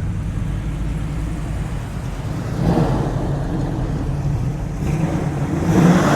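Car engine running at low speed, a steady low drone that grows louder about three seconds in and again near the end.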